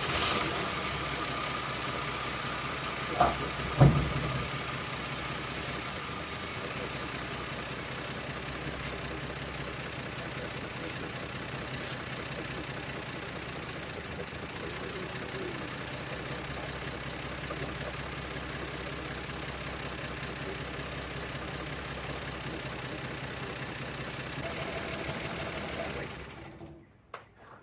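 1975 Plymouth Duster's engine idling steadily during carburettor adjustment, an idle the owner says bounces around as if misfiring or from a vacuum leak. Two sharp knocks come about three and four seconds in, and the engine sound cuts off about a second before the end.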